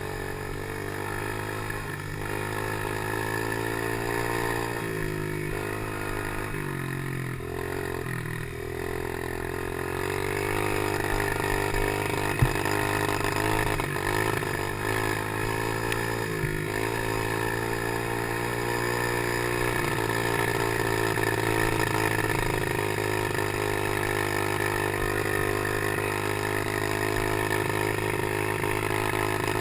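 Small PY90 motorcycle engine running while being ridden, its pitch dipping and rising with throttle and gear changes in the first ten seconds, then running steadier and a little louder. A single sharp knock about twelve seconds in.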